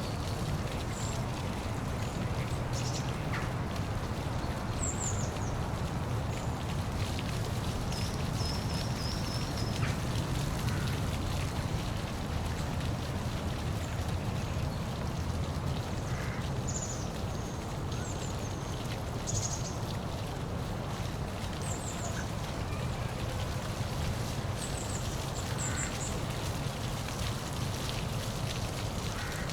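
Steady rushing of a waterfall, heaviest in the low end, with birds giving short high calls now and then.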